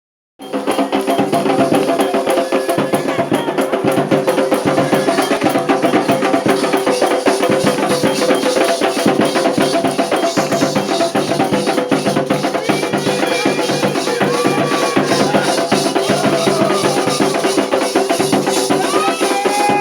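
Candomblé ritual drumming: a fast, continuous rhythm of hand drums and other percussion, starting abruptly just after the start, with sustained tones and some gliding higher sounds above it.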